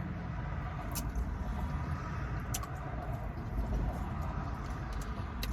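Steady low rumble of a car's idling engine heard from inside the cabin, with two faint sharp clicks about one and two and a half seconds in.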